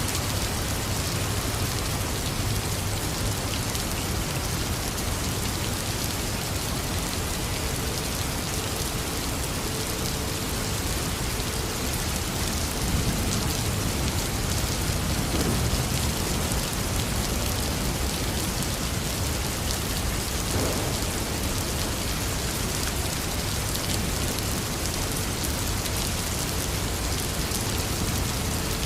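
Heavy rain pouring steadily, with a low rumble of thunder swelling about halfway through.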